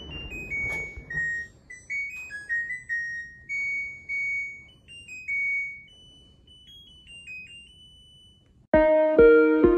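A simple electronic melody of single beeped notes, about fifteen of them stepping up and down, like an appliance's or phone's built-in tune. Strummed guitar music starts near the end.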